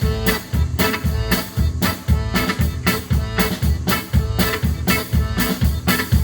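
Live band playing the instrumental intro of a dance song straight after a count-in: a fast, steady beat with guitar and accordion.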